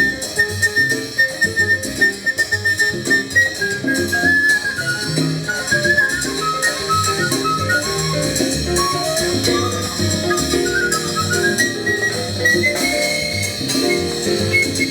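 Latin jazz ensemble playing live: a high lead melody wandering up and down over bass, chords and steady percussion.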